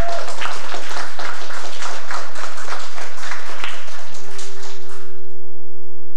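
Applause from a small audience, a few seconds of irregular clapping that dies away about five seconds in, with a steady held note sounding near the end.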